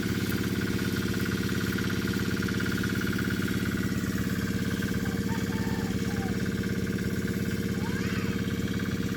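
Small single-cylinder diesel engine of a crop power sprayer running steadily at constant speed, a fast, even chugging.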